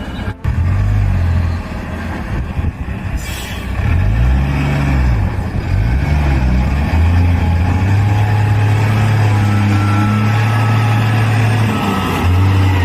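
Heavy truck engine under load, its pitch rising and falling twice about four to six seconds in, then holding a steady drone.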